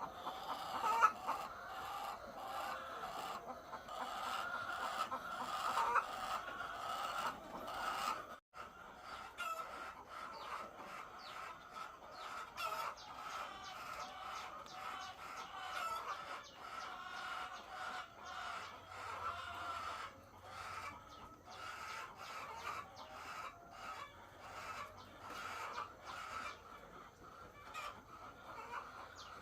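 A large flock of egg-laying hens clucking together in a continuous chorus, with scattered short clicks. The sound cuts out completely for a moment about eight seconds in.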